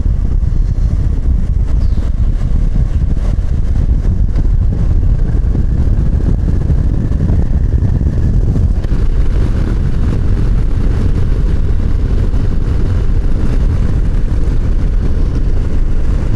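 Harley-Davidson Low Rider ST's 117 V-twin engine running steadily at road speed, heard together with heavy wind rush over the microphone. The sound is a deep, continuous rumble.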